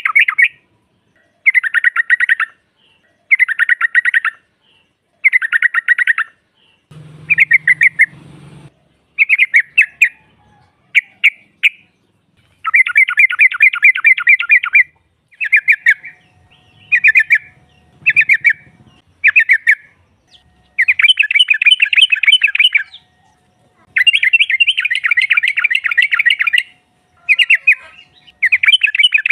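Yellow-vented bulbul (trucuk) chattering calls: bursts of rapid bubbling trills, one to three seconds each, repeated over and over with short pauses. This is the lure call used to draw other bulbuls into answering.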